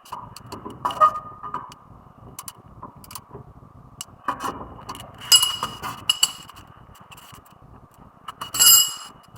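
Metal tools and brake parts clinking, knocking and scraping during front brake pad work, in irregular clicks with a slight metallic ring. The sharpest knocks come about a second in and around five to six seconds in, with a longer clatter near the end.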